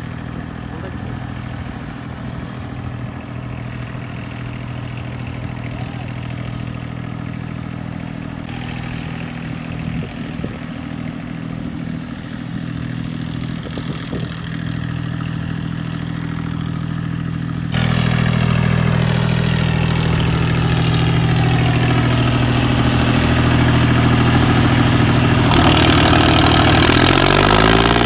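Tractor diesel engine running steadily, then suddenly much louder and harsher about two-thirds of the way through, held at high revs.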